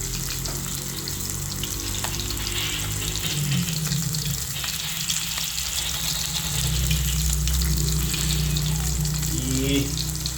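Tilapia fish frying in hot oil, a continuous sizzle and crackle with a steady low hum underneath.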